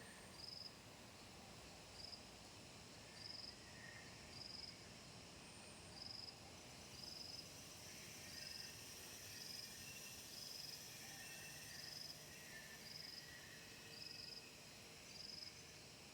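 A cricket chirping faintly in short, evenly spaced high pulses, about one a second, with fainter, irregular chirps of other insects underneath.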